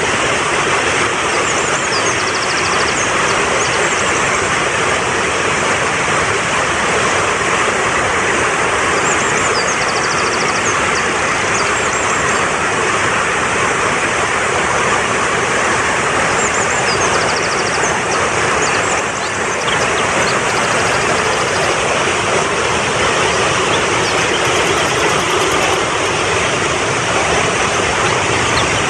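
Fast-flowing mountain stream rushing steadily, with faint high bird chirps and short trills now and then.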